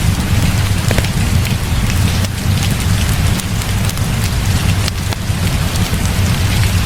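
Heavy rain falling steadily under a constant low rumble, with scattered sharp crackles from a wood fire.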